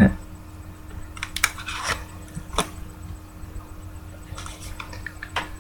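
Trading cards being handled, with a few light, scattered clicks and rustles of card stock against card stock and the table.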